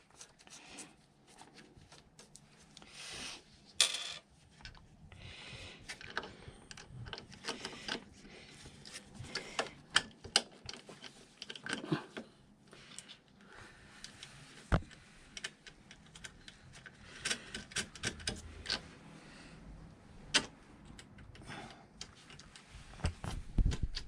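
Irregular light clicks, taps and rattles of small parts and hand tools being handled while an ECU unit is fitted and bolted into a scooter, with a few sharper knocks.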